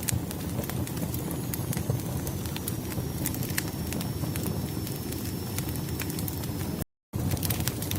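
Firewood burning with irregular crackles and sharp pops over a steady low rumble, and a faint high thin whistle that slowly falls in pitch. The sound cuts out to silence for a moment about seven seconds in.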